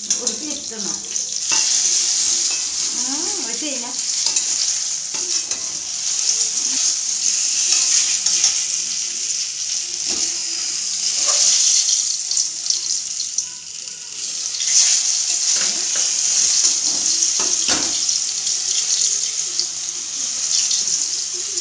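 Brinjal (eggplant) slices frying in hot oil in a steel kadai: a steady sizzle, with a few scrapes and taps of a metal spatula against the pan as the pieces are turned and lifted out.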